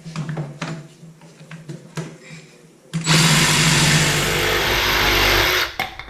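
A few clicks and knocks, then about three seconds in a DeWalt DCS331B 20V cordless jigsaw starts cutting through a piece of wood. It runs at a steady speed for about two and a half seconds and stops just before the end.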